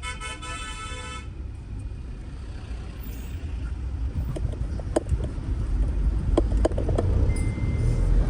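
A road vehicle on the move: a horn that ends about a second in, then a low rumble of engine and road noise that grows louder, with a few sharp knocks.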